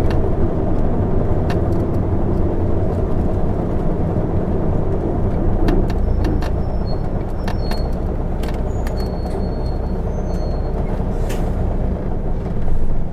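Interior running noise of an Isuzu Erga city bus (PKG-LV234N2) on the move: its straight-six diesel and road noise run steadily, with scattered clicks and rattles from the cabin fittings. There is a short louder rush near the end.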